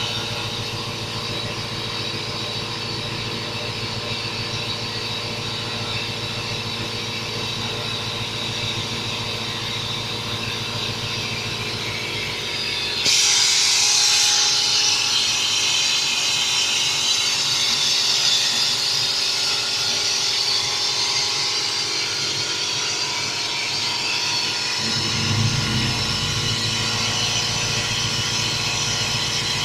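Electric vacuum running steadily, sucking carbon-cleaner fluid and loosened carbon out of the engine's cylinder. About 13 seconds in, a louder hiss of rushing air sets in suddenly and continues, and the low hum grows stronger near the end.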